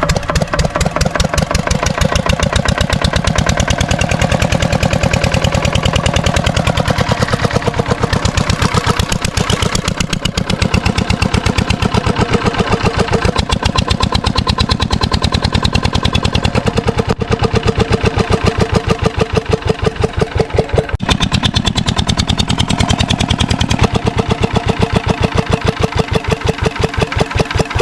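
8 HP single-cylinder diesel engine of an irrigation water pump set running steadily, with a rapid, even beat of firing strokes.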